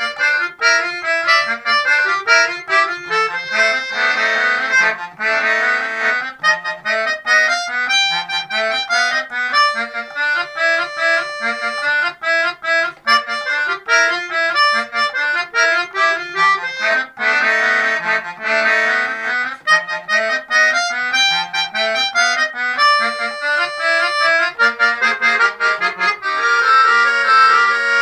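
Two keyboard harmonicas (melodicas) playing a duet: a quick, bouncy melody of short detached notes over a lower accompanying line.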